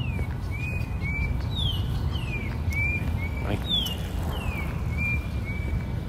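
A songbird singing a run of clear whistled notes, falling slurs alternating with short level notes, repeated about once a second over a steady low rumble.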